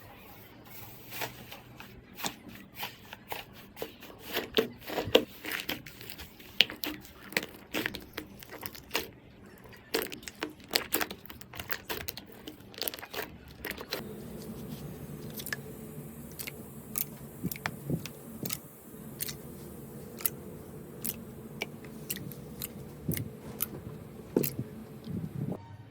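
Slime being squeezed and pressed by hand, giving many sharp, irregular crackles and pops. About halfway through the sound changes to a second take with a steadier background under sparser pops.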